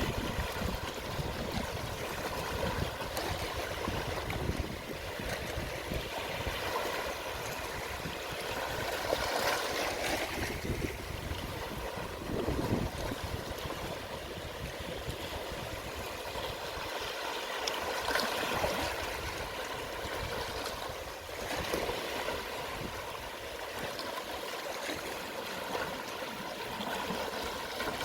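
Gentle sea waves washing over the shore at low tide: a steady hiss of water that swells and falls back every several seconds.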